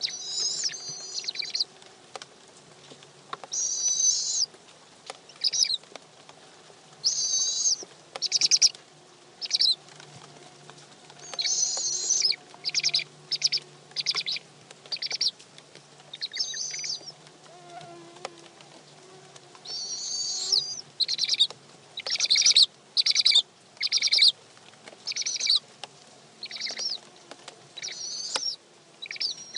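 Barred owls in a nest box giving repeated short, high, raspy squeals, about one every second or so, typical of begging calls as the male brings in prey.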